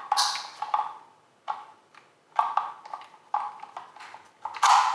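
Hard plastic vacuum accessory parts being handled, giving about five separate sharp clacks and knocks, the loudest near the end.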